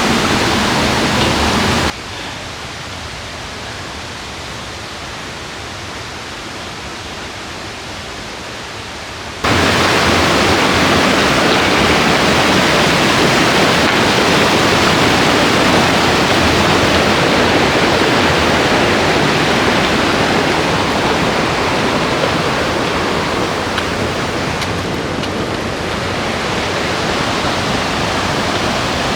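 Strong wind rushing over the microphone as a steady, loud noise. It drops abruptly about two seconds in and comes back just as abruptly about seven seconds later.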